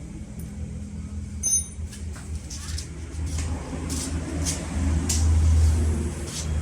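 Honda CBR150R's single-cylinder engine running through an Akrapovic full-system exhaust, a steady pulsing exhaust note that swells louder about five seconds in as the throttle is opened. A short clink about a second and a half in.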